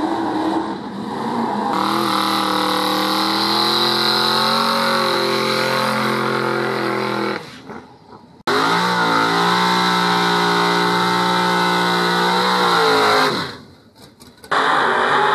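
Drag-car engines held at high revs during burnouts, with the rear tyres spinning. Three separate runs are heard, each cut off suddenly by a short drop of about a second.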